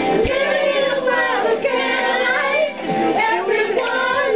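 Singing over background music, a voice carrying a melody with the music underneath.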